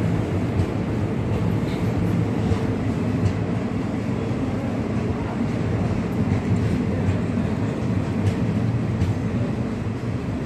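Coaches of an arriving express passenger train rolling past a station platform: a steady low rumble of wheels on rail, with scattered faint clicks.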